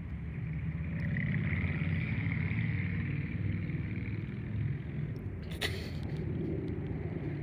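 Distant freight train with BNSF and Norfolk Southern diesel locomotives, a steady low rumble as it rolls along the track. A higher hiss swells and fades between about one and three seconds in, and there is one sharp click a little past five seconds.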